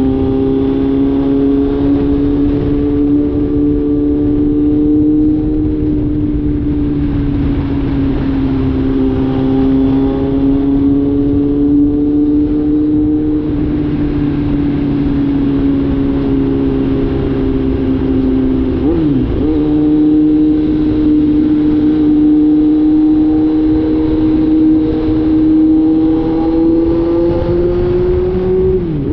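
Kawasaki Z900's inline-four engine, catalytic converter removed, running steadily under way with its pitch drifting slowly up and down. The pitch dips sharply and recovers about two-thirds of the way through and again at the end, as at a gear change.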